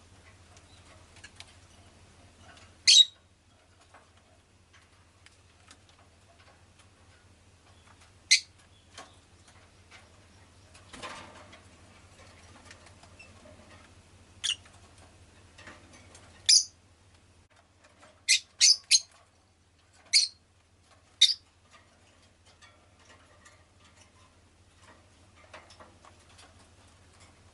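Rosy-faced lovebird giving short, sharp, high single chirps, spaced several seconds apart, with a quick run of three about two-thirds of the way through. A faint steady low hum lies underneath.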